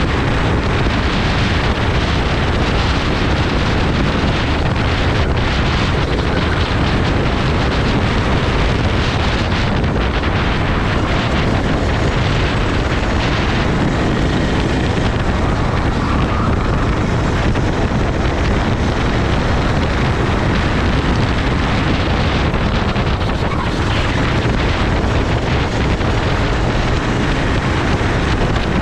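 Go-kart running at speed on track, its engine sound mostly buried under steady, heavy wind noise on the microphone.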